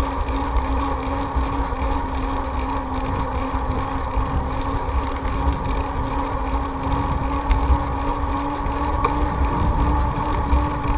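Steady riding noise from a moving bicycle: an even drone with a constant held tone, and wind rumbling on the microphone underneath.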